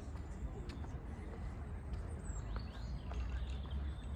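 Outdoor garden ambience: a few short bird chirps, mostly in the second half, over a steady low rumble, with a few faint clicks.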